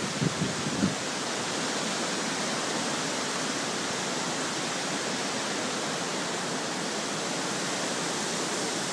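Steady rushing noise of hurricane wind, with a few short low thumps in the first second.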